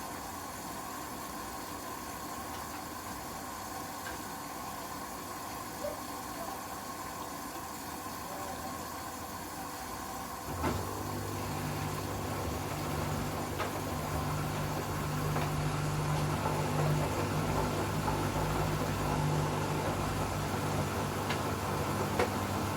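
Hoover inverter washing machine running mid-cycle with a steady noise. About ten seconds in there is a click, and a louder low steady hum starts: the drain pump switching on to pump out the water.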